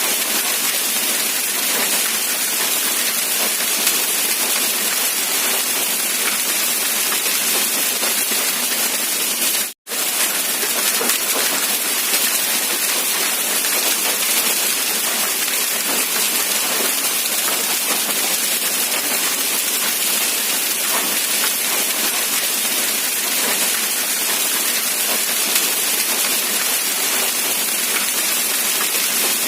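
Steady rain falling: an even, hissing wash of drops. It cuts out for a split second about ten seconds in.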